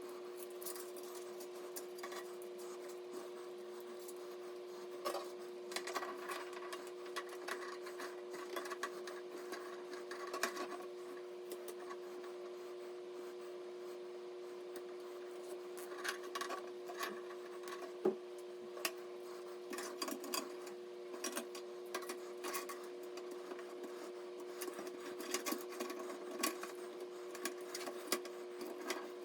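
A steady two-note hum with scattered small clicks and rubbing sounds throughout.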